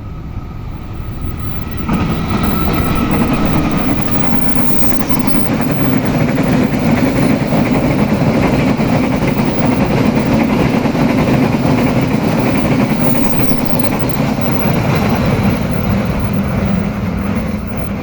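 Train passing close by, its wheels rolling on the rails in a loud, steady rumble. The rumble starts suddenly about two seconds in and eases off near the end.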